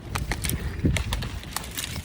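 Footsteps and a person pushing through brush and undergrowth, with irregular crackling and snapping of twigs and branches.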